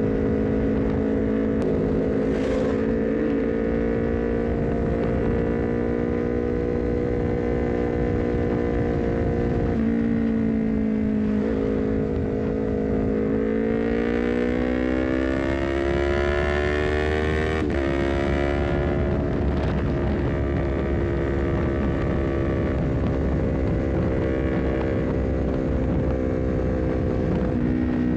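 Honda CBR250RR engine running through an aftermarket full-system exhaust (R9 header, short Leovince GP Corsa carbon silencer), holding steady revs while cruising. About halfway through it accelerates with a rising pitch, then an upshift drops the pitch suddenly, and it settles back to steady cruising revs.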